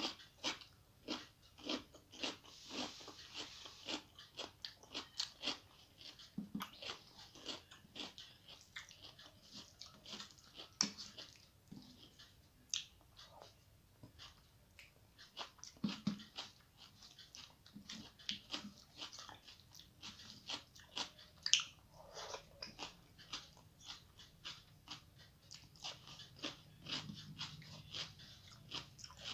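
Close-up sounds of a person eating rice by hand: chewing with wet mouth clicks and lip smacks, a few a second, unevenly spaced.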